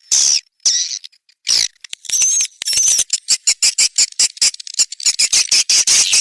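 Swiftlet calls played as a lure for a swiftlet nest house: high, rapid chirping twitters. The first couple of seconds hold a few short bursts with gaps between them, and then comes a fast, continuous run of many short chirps.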